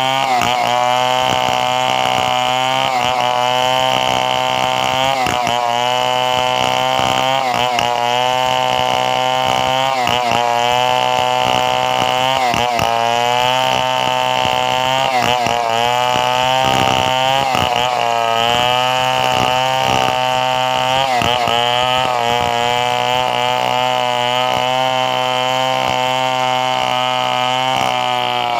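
Two-stroke chainsaw running at high revs through wood, its pitch dipping briefly every second or two.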